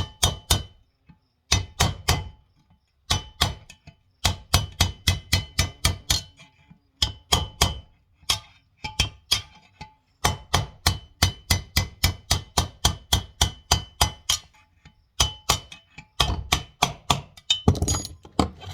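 Hammer blows driving a stuck ring out of a Mahindra 5010 tractor's front final drive housing: runs of sharp metal-on-metal strikes, about four a second, each ringing briefly, in bursts with short pauses. Near the end comes a rougher, scraping rattle.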